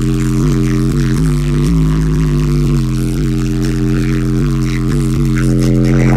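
Car audio subwoofers playing a bass-heavy track very loud, a deep bass line that steps from note to note a couple of times a second. The woofers are being driven with a lot of power, hard enough that they start to smoke.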